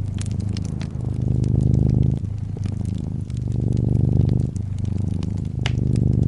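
Brown tabby cat purring steadily close up, the purr swelling and easing in waves of about a second or two as the cat breathes in and out. Scattered fireplace crackles pop over it, one sharper pop near the end.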